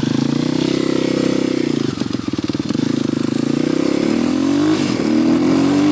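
Kawasaki 250 motorcycle engine under way, its pitch rising and falling with the throttle. There is a brief lift off about two seconds in. Then it climbs steadily, drops suddenly near the end as it shifts up a gear, and climbs again.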